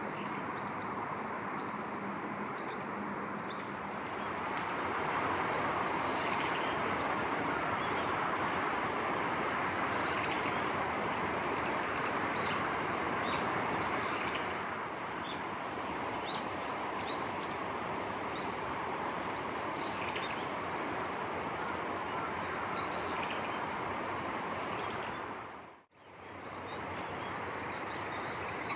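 Small birds chirping with many short high calls over a steady background noise. The sound cuts out completely for an instant near the end.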